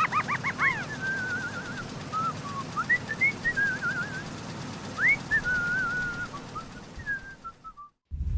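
A string of high, warbling, whistle-like calls that waver and trill, with quick wobbling notes at the start and sliding, rising and falling notes after.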